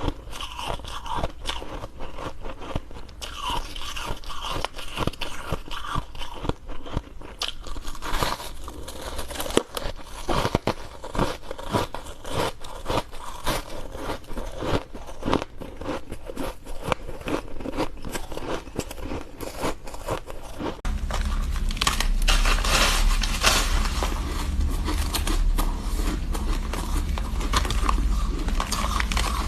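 Ice being bitten and chewed close to the microphone: a dense run of sharp crunches and crackles. From about two-thirds of the way in the crunching gets louder and denser, with a low rumble under it.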